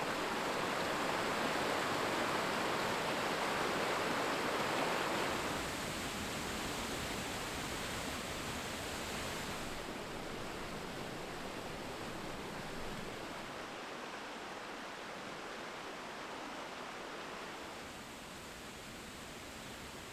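Steady rushing noise of a waterfall, louder for the first five seconds or so, then a little softer.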